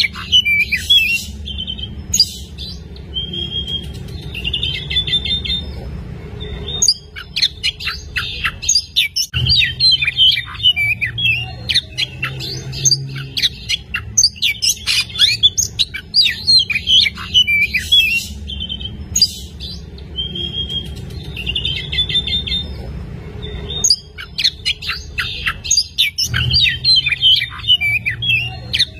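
Oriental magpie-robin singing without pause: a fast, varied run of chirps, whistles and trills, broken by brief gaps, over a low steady hum.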